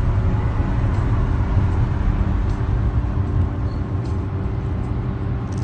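Steady low rumble of a running vehicle, even throughout with a faint steady hum above it.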